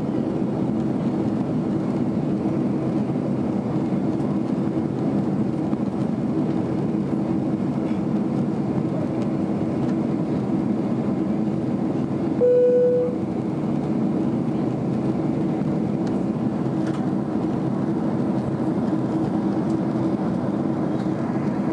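Steady cabin noise of a Boeing 767 in flight: the engines and the rush of air over the airframe, with a low hum. About halfway through, a single cabin chime sounds once, briefly.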